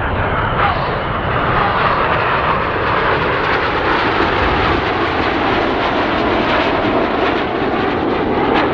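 Several BAE Hawk T1 jets of a formation aerobatic team, their Adour turbofans giving a loud, steady jet noise while they fly rolling manoeuvres.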